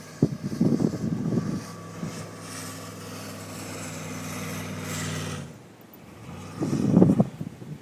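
A vehicle engine running steadily for about four seconds, between gusts of wind buffeting the microphone, with the loudest gust near the end.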